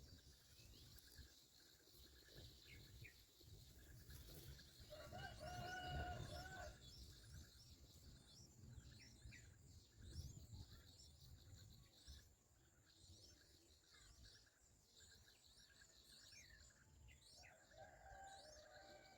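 Faint outdoor background of many short, high bird chirps over a steady high insect drone, with a distant rooster crowing once about five seconds in and again near the end.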